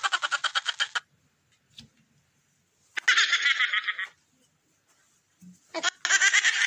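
A string of short comic sound effects separated by silence. A fast, rapidly pulsing sound stops about a second in, a brief warbling sound follows a couple of seconds later, and a longer wavering, squeaky sound starts near the end.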